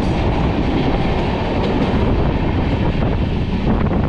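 Passenger train running along the track, heard from inside the coach: a steady rumble of wheels on rails and coach noise.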